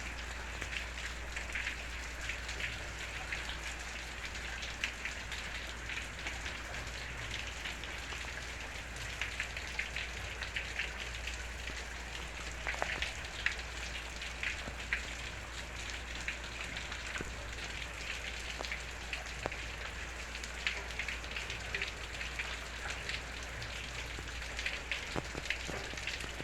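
Steady rain falling, a constant hiss dotted with many small ticks of individual drops, over a low steady hum.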